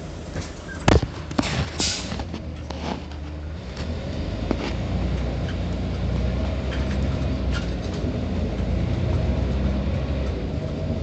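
Scania OmniCity city bus: a few sharp clunks and a short burst of air hiss in the first three seconds, then the diesel engine builds up and runs steadily as the bus gets under way.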